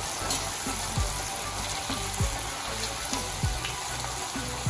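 Potato strips deep-frying in hot oil, a steady sizzle. Background music runs underneath, with repeated deep bass notes that drop in pitch.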